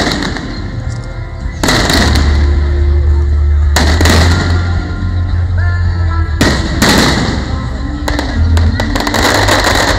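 Aerial firework shells bursting in a series of loud bangs, roughly one every two seconds, over music with a heavy bass line played for a pyromusical show.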